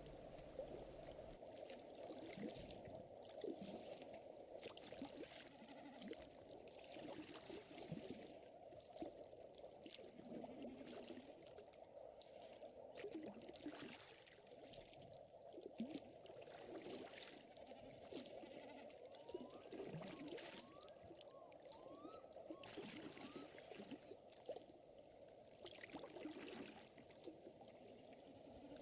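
Quiet lakeside nature ambience: lake water gently lapping and trickling, overlaid with light crackling of a fire. A few short rising chirps come about two-thirds of the way through.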